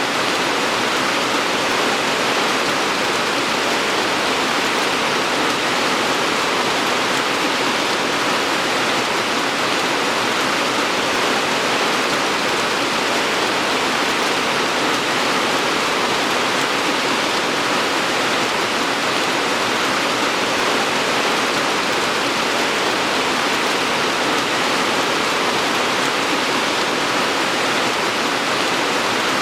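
Steady rain falling, a dense, even hiss with no distinct drops standing out.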